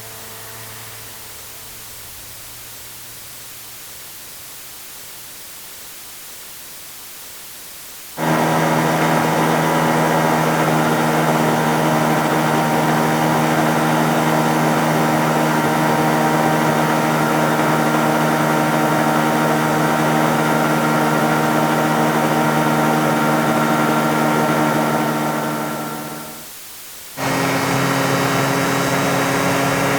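Motorcycle running at a steady speed, its engine holding one even pitch. It starts suddenly about eight seconds in after a stretch of faint hiss, and fades out near the end. About a second later a second motorcycle run at a slightly higher, steady pitch starts abruptly.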